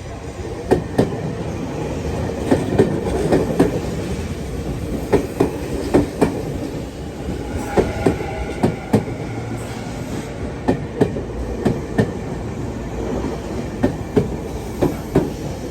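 Tokyu electric train cars rolling slowly over the rail joints at a level crossing, the wheels clicking in quick pairs, axle after axle, over a steady rumble. A brief high tone about halfway through.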